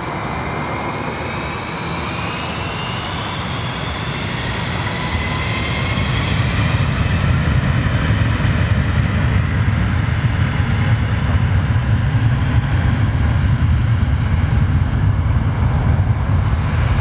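Jet airliner's engines spooling up for takeoff: a high turbine whine with gliding tones, then a deep rumble that grows louder from about six seconds in and stays strong.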